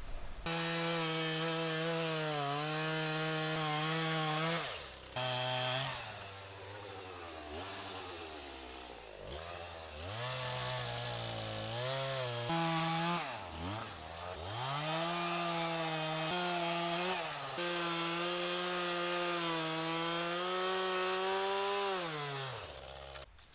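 Chainsaw cutting through a wind-felled tree trunk, the engine held at high revs with the pitch sagging as the chain bites. It drops back and wanders at lower revs twice, then runs high again and stops near the end.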